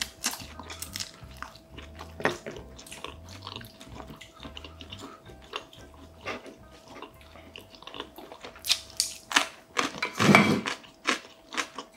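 Close-miked chewing and wet mouth sounds of a person eating spicy buldak food, with small clicks of chopsticks against ceramic dishes and a louder crunchy bite about ten seconds in. Faint background music plays underneath.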